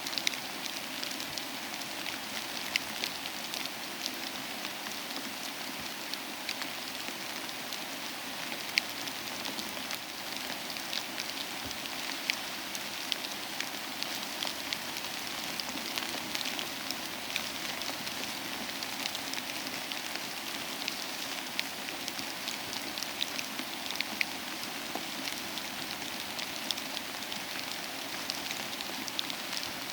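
Steady soft rain with a crackling wood fire, scattered sharp clicks and pops over the even hiss.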